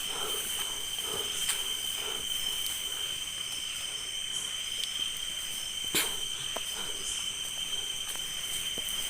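Steady chorus of night insects, a continuous high trill in several pitches, broken by a few sharp clicks, the loudest about six seconds in.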